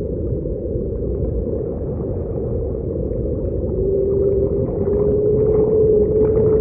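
Remixed underwater ocean soundscape: a deep, dense rumble, with one long, steady whale-like call coming in about four seconds in and held to the end.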